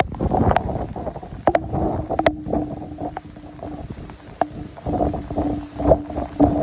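Storm wind gusting across the microphone, a low uneven rumble that swells and drops, with a few sharp clicks and a steady low hum from about one and a half seconds in.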